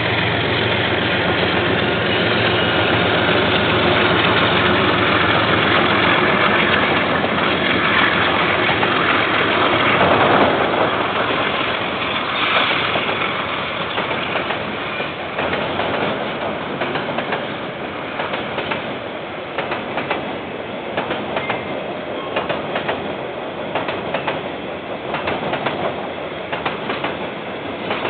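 KiwiRail diesel freight train passing: the locomotive's engine noise is loudest in the first ten seconds or so, then container wagons roll by with a rhythmic clickety-clack of wheels over rail joints.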